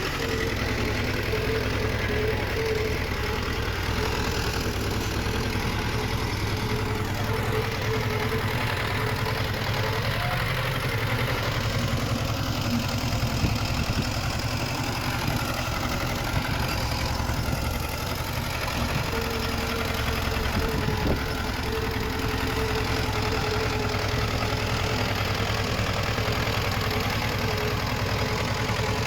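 Heavy-equipment diesel engine running steadily, a low rumble with a constant drone, without revving up or down.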